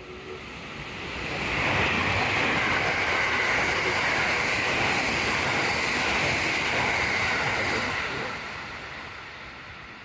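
A train passing at speed: rushing wheel-on-rail noise swells over about a second, holds steady for about six seconds, then fades away.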